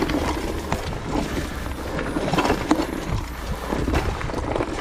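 Mountain bike being ridden uphill on a dirt trail: irregular clicks and rattles from the bike and its tyres over the ground, over a steady low rumble.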